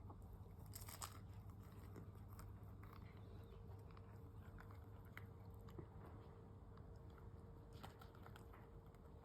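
Faint crunching and biting as a cat chews on a catnip toy mouse, with a few sharper crunches about a second in and again near the end, over a steady low hum.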